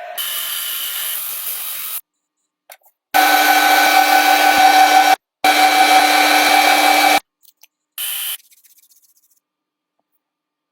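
Electric power tool running at a steady speed with a constant whine, in four separate bursts of one to two seconds, each cut off sharply.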